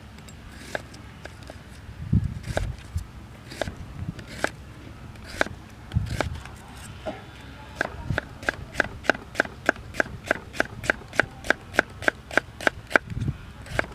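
Sharp tapping clicks: scattered at first, then an even run of about five a second for several seconds in the second half. Low wind buffeting on the microphone comes and goes underneath.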